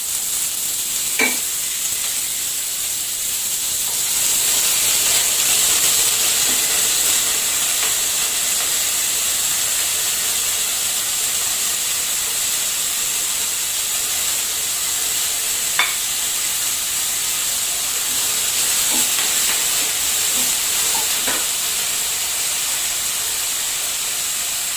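Chopped papdi (flat beans) sizzling in hot oil after a mustard-seed tempering in a frying pan: a loud, steady frying hiss. A few sharp taps sound over it, about a second in and twice more later on.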